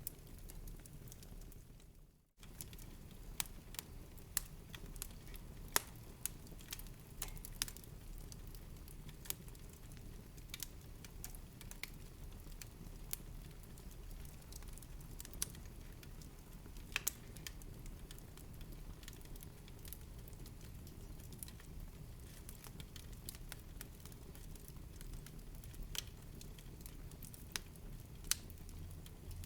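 Fire burning in a fireplace, crackling steadily with irregular sharp pops over a low hiss. The sound cuts out for a moment about two seconds in.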